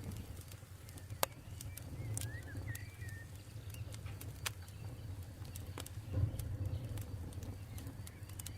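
Wood campfire crackling, with many sharp pops and snaps over a steady low rumble. A short chirping bird call comes about two seconds in.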